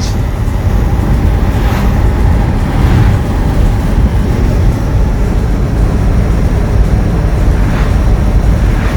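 Porsche 986 Boxster's flat-six engine running steadily on the move, mixed with road and wind noise.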